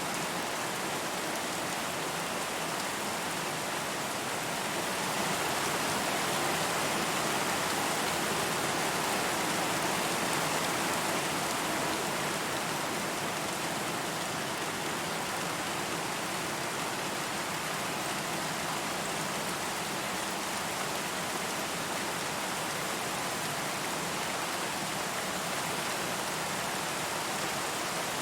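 Steady rain falling and pattering on a surface, an even hiss, swelling slightly in intensity for a few seconds before settling back.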